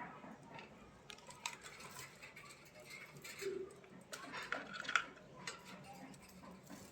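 Budgerigars chattering softly: scattered short chirps and clicks, busiest about four to five seconds in.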